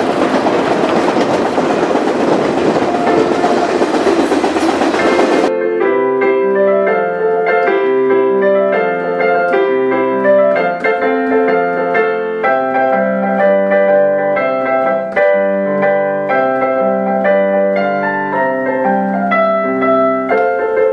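Steady rushing noise of riding on a moving freight train, which cuts off abruptly about five seconds in. Piano music plays after the cut.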